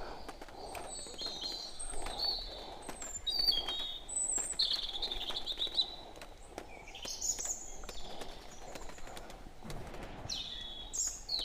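Small birds chirping and twittering, a string of short high calls throughout.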